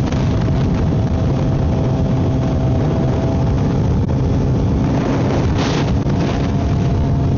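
Kawasaki Z900's inline-four engine through a full M4 aftermarket exhaust, running at a steady pace while cruising. The engine is heard from inside the rider's helmet with wind rushing over the microphone.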